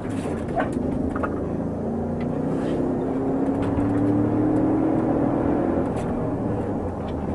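Car engine running as the vehicle drives, its pitch rising slowly for a few seconds as it gathers speed, then settling.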